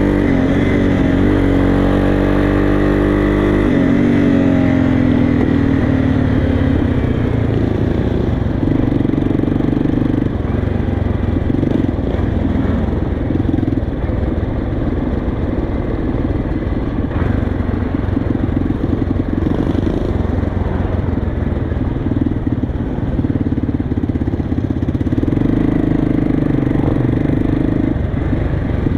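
Motorcycle engines running, the pitch falling and rising over the first few seconds, then settling into a steady, rough engine sound.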